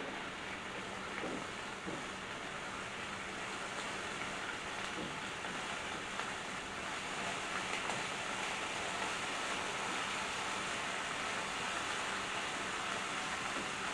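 Whole garlic cloves sizzling steadily in hot oil in a frying pan, getting a little louder as the heat comes up.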